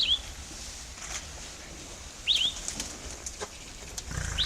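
A bird calling: a short two-part chirp, quickly rising then falling, repeated three times about two seconds apart. Faint sharp snaps come between the calls.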